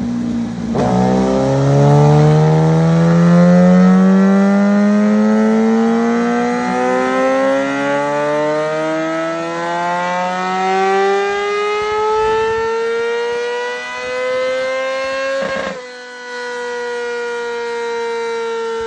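Yamaha inline-four sportbike engine breathing through an Arrow aftermarket exhaust, pulling hard in one long run whose pitch climbs steadily for about fifteen seconds. It then breaks off sharply and holds a high, steady note that sags slightly.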